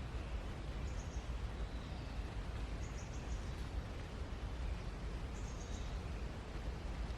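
Steady outdoor background noise with a low rumble, and a bird's faint high chirps repeating about every two seconds.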